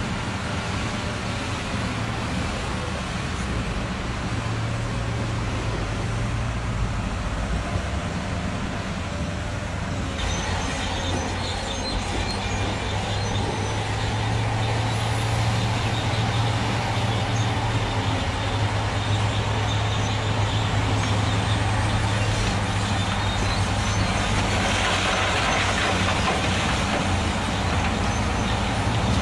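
Stone-delivery truck's diesel engine running steadily, with more hiss and rattle joining about ten seconds in and the engine getting louder from about fourteen seconds.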